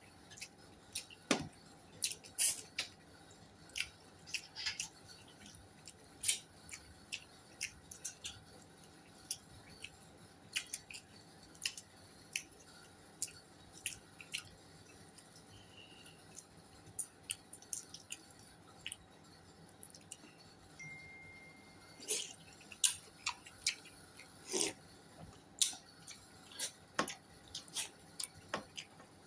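Close-up eating sounds: irregular sharp clicks and clinks of utensils against a plate, mixed with chewing.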